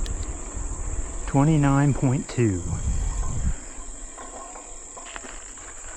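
Insects chirring in a steady, high-pitched drone. Under it a low rumble stops about three and a half seconds in.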